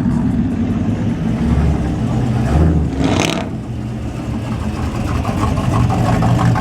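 Truck engines running with a steady low rumble that swells about two seconds in, and a short burst of noise about three seconds in.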